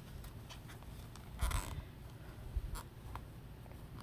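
Crochet hook and yarn working a single crochet stitch: faint scratching and small ticks as the hook pulls yarn through the loops, with a brief louder rustle about a second and a half in.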